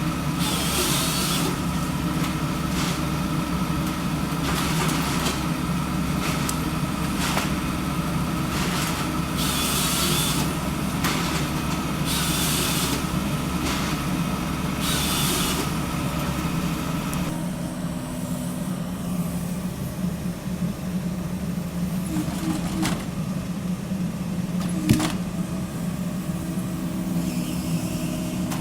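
Diesel engine of an excavator-based forestry harvester running steadily, with several short bursts of hiss in the first half. The deep rumble eases about two-thirds of the way through, and there is one sharp click near the end.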